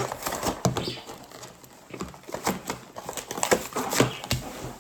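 Toy packaging being handled: a run of irregular taps, clicks and rustles, several a second.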